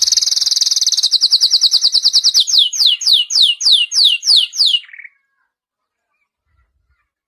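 Domestic canary singing: a fast, even trill that gives way about two and a half seconds in to slower falling whistled notes, about four a second, ending on a short lower note.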